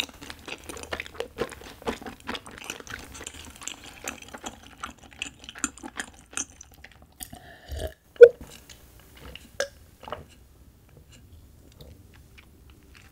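Close-miked chewing of a mouthful of rapokki (rice cakes and ramen noodles): rapid wet mouth clicks for about six seconds. Then swallowing gulps from a glass mug of drink, the loudest about eight seconds in, before it goes quieter.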